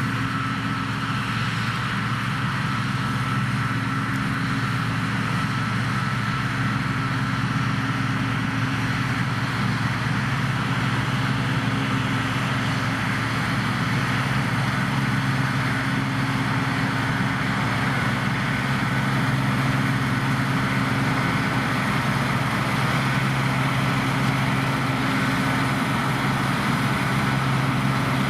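Deutz-Fahr C9306 combine harvester running steadily while harvesting: a deep, even engine hum with a constant thin whine over it.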